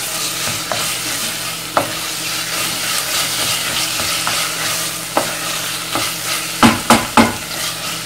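Chopped onion and garlic with tomato and pepper paste sizzling in olive oil in a stainless steel pot, stirred with a wooden spoon. The spoon scrapes and knocks against the pot now and then, with three louder knocks in quick succession near the end.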